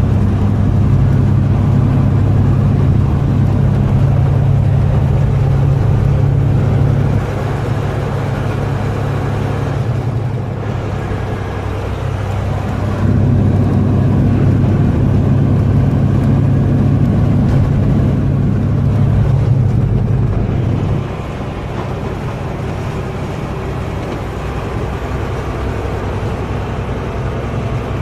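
Semi truck's diesel engine droning steadily while driving. It gets louder and softer in steps: it drops about seven seconds in, rises again around thirteen seconds, and drops again about twenty-one seconds in.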